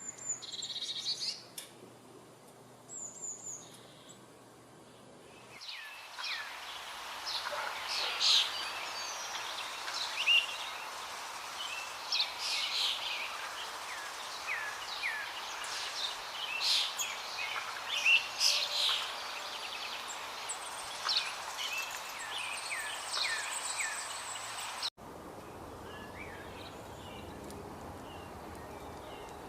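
Birds chirping and calling. A few sparse high chirps come first; about six seconds in, a dense chorus of many birds starts over a steady background hiss. Near the end it cuts off abruptly to a quieter background with faint calls.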